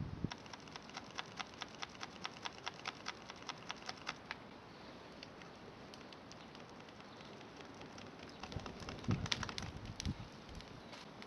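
A quick, even run of sharp clicks, about four a second, for the first four seconds, then a short cluster of knocks and dull thuds near the end.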